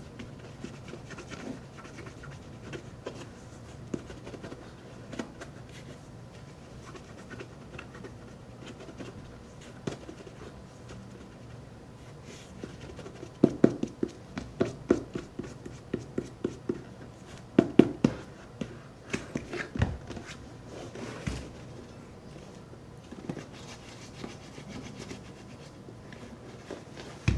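Shoe cream being rubbed into a leather boot: soft, steady rubbing, with a run of quick taps and knocks in the middle.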